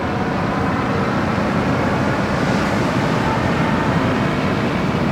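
Steady rushing wind noise with a low rumble underneath, unbroken and even throughout.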